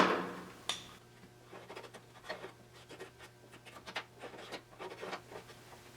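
A sharp knock at the start and a lighter click just under a second in, then a run of light, short scratching strokes: a cut line being marked out on a sheet-metal repair piece.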